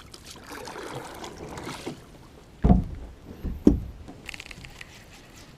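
Handling noise in a kayak: soft rustling, then two loud, low knocks against the hull about a second apart, followed by a short run of fast clicking.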